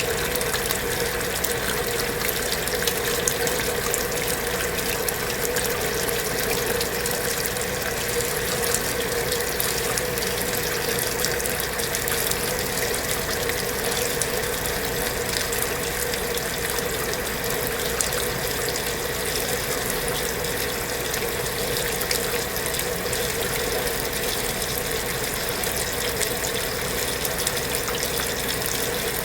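Kenmore belt-drive portable washing machine running steadily through its cycle: water rushing through the machine over a constant motor hum.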